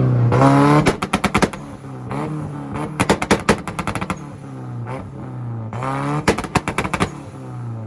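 Nissan Frontier pickup's engine revved against a two-step launch limiter. Three times the revs climb and break into rapid strings of loud pops and bangs from the exhaust.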